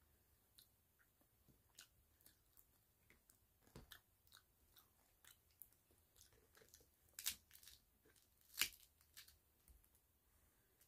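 Close-up chewing and crunching of a crisp fried tostada shell: scattered soft crunches and mouth clicks, with two louder crunches in the second half.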